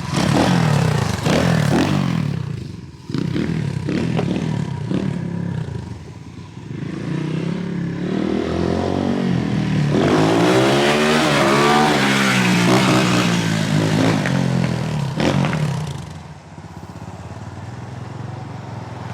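250cc X-Pro dirt bike engine revving up and down as it is ridden, its pitch climbing and falling several times. It swells loudest around the middle and drops quieter near the end.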